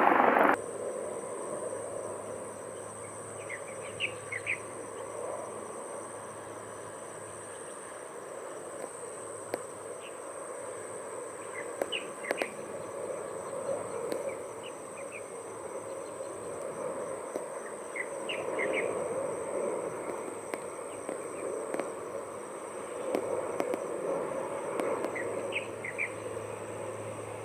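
Insects keep up a steady high-pitched buzz while a bird gives short clusters of chirps four times, roughly every seven seconds, over a low steady background hum.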